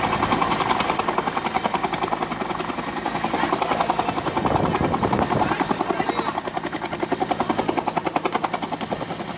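Firefighting helicopter flying overhead, its main rotor making a rapid, rhythmic beat that swells and fades in loudness.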